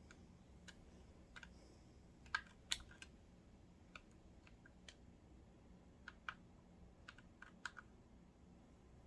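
Faint, irregular small clicks and taps of parts and tools being handled inside a Kenmore sewing machine during reassembly, a dozen or so spread over several seconds.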